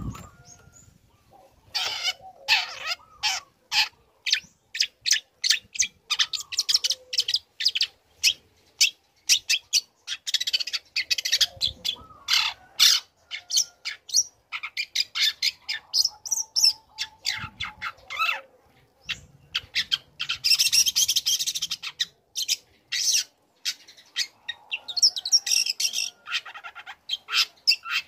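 Young long-tailed shrike (cendet) singing in fast runs of short, high chattering notes, one run after another with brief pauses between.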